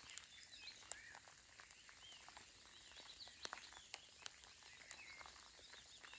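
Faint birdsong, many short chirping calls, with scattered light ticks of raindrops falling.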